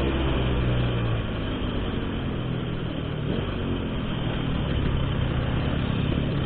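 Motorcycle engine through an aftermarket Altech C17 exhaust, running at low speed in traffic with a steady low note that picks up a little near the end, over a hiss of wind and road noise.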